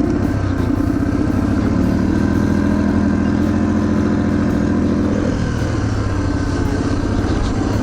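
Yamaha TTR230's single-cylinder four-stroke engine running rough under way, not firing all the way; the owner blames a bad or weak battery for the poor running.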